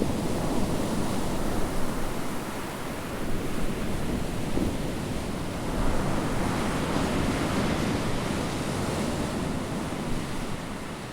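Ocean surf washing on the shore, with wind buffeting the microphone. A wave surges about six seconds in, and the sound fades out near the end.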